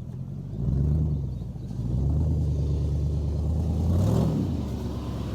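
Car engine blipped briefly about half a second in, then held at raised revs for a couple of seconds, rising once more just after four seconds before dropping back to idle. The exhaust has a bad leak.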